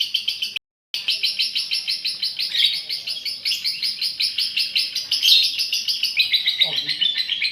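Female lovebird giving its long, rapid chattering trill (ngekek), high notes repeating about ten times a second without pause. A brief dead-silent gap interrupts it near the start.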